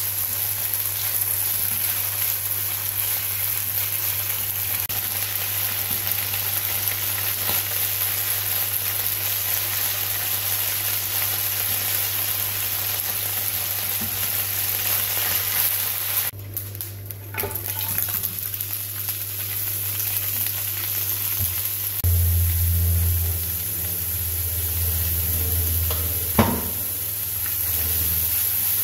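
Chicken livers and ginger sizzling in a hot oiled nonstick frying pan as they are stirred with chopsticks. A steady low hum runs underneath and grows louder about two thirds of the way through, and a single sharp knock comes near the end.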